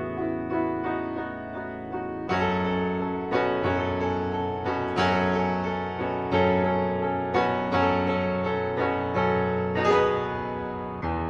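Background music: piano notes and chords struck about once a second, each ringing on and fading.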